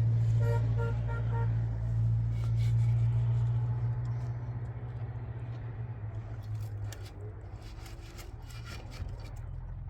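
Motor vehicle engine running steadily, loudest for the first few seconds, with four short horn toots in the first second and a half.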